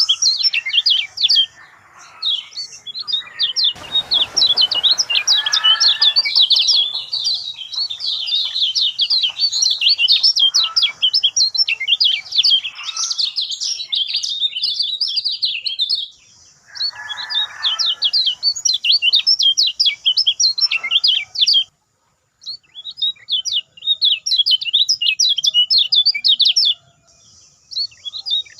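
Kecial kuning birds singing in fast, dense runs of high chirps and trills, broken by a short silence about three-quarters of the way through.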